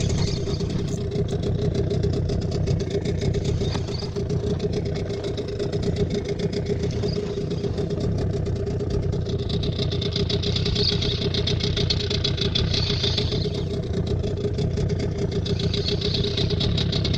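Small boat motor running at a steady, even hum. A higher hiss rises over it for a few seconds past the middle and again near the end.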